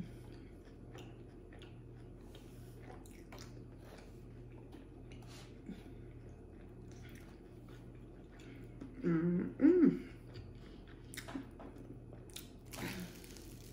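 A person chewing pepperoni pizza close to the microphone: soft, scattered mouth clicks. A brief voiced sound about nine seconds in, and a louder bite into the slice near the end.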